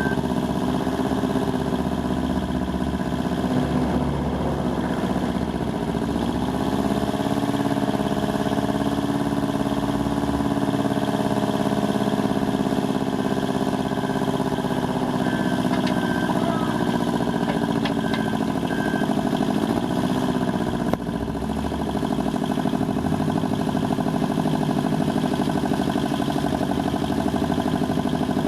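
Kubota B600 compact tractor engine running steadily at a fast idle, its speed dipping briefly and picking back up twice, about six seconds in and again about twenty seconds in.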